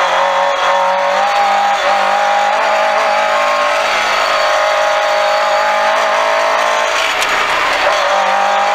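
Lada VFTS rally car's four-cylinder engine held at high revs, heard from inside the cabin over the rumble of tyres on gravel. The engine note holds steady, fades briefly near the end and picks up again.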